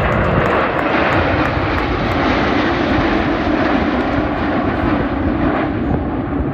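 Airplane flying past with its engine noise a loud, steady roar, the hiss in it softening slightly near the end.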